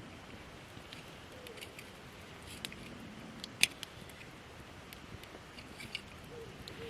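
Wood campfire of gathered branches crackling over a steady hiss, with scattered sharp pops, the loudest about three and a half seconds in.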